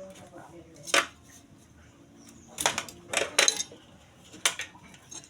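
A few sharp metal clinks and knocks at irregular intervals, as metal objects are handled and set down.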